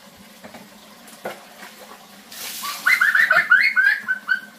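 A tap starts running into a plastic basin about two seconds in, with water splashing. Over it comes a quick run of about a dozen short, high chirping bird calls, the loudest sound.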